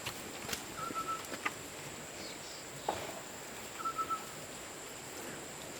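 Rural outdoor ambience: a short, level call repeated twice, about three seconds apart, over a steady high-pitched drone.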